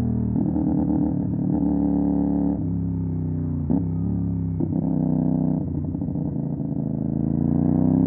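CFMOTO 450 SR parallel-twin engine through an MSH G6 full-system aftermarket exhaust, ridden with the revs changing. There are two short sharp blips in the middle, then the revs climb steadily near the end.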